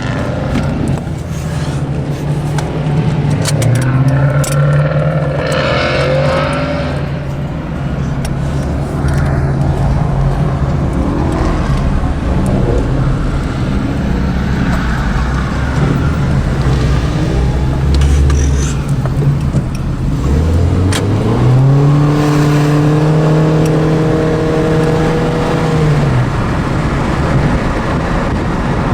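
Car engine running through a pieced-together 'Frankenstein' exhaust, mostly at a steady low note. About twenty seconds in the engine speed rises smoothly, holds at a higher note for about four seconds, then drops back.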